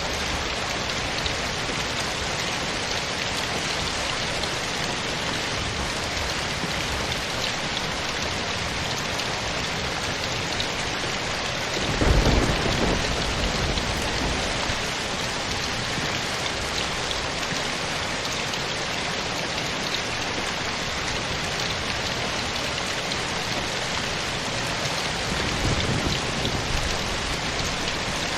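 Steady rain falling, with a brief low rumble swelling up about twelve seconds in and a fainter one near the end.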